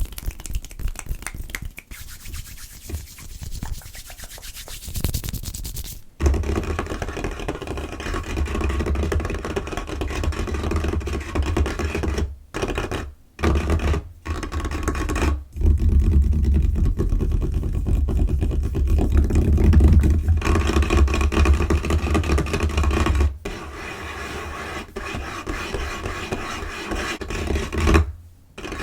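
Fast tapping, scratching and rubbing on a table surface, close-miked, in short segments that cut abruptly from one to the next. A steady low hum sits under most of the middle part.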